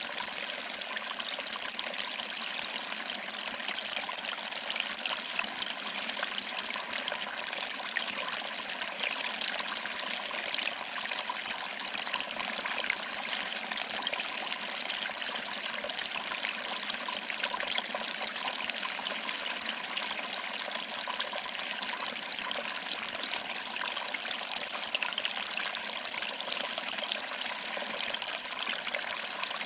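Small waterfall: water trickling over rocks and splashing into a pool, a steady even rush with little low rumble.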